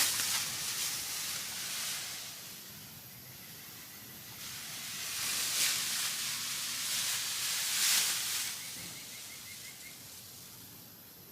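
Compressed air hissing from a handheld air tool in three long swells of a second or two each, the last fading about nine seconds in.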